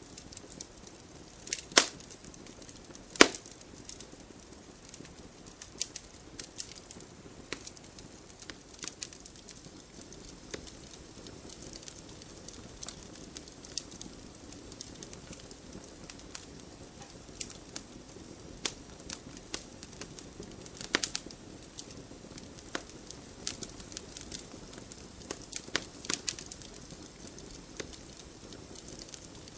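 Wood fire burning in a fireplace: a steady low rush of flame with frequent sharp crackles and pops. The two loudest pops come about two and three seconds in.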